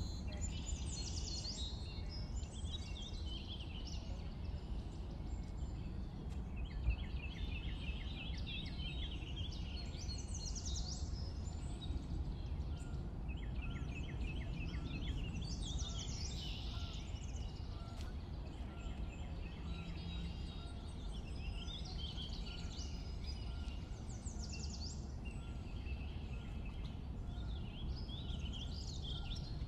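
Birds chirping and calling throughout, including several rapid trills of repeated notes, over a steady low background rumble.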